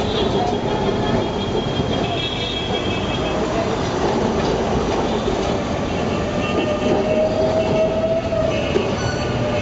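Calcutta electric tram running along its street track, a steady loud running noise from the car and rails, with a thin drawn-out tone rising briefly about seven seconds in.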